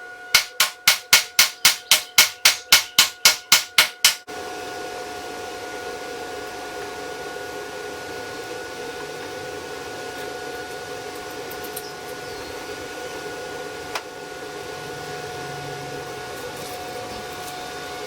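A hammer striking metal in a quick, even run of about sixteen blows, roughly four a second, stopping after about four seconds. A steady hiss with a faint steady whine follows, broken once by a single click.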